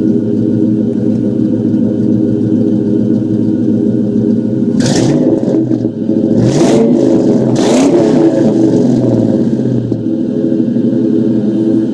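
2001 Mustang GT's 4.6-litre V8 idling through its exhaust, revved three times in quick succession about halfway through, then settling back to a steady idle.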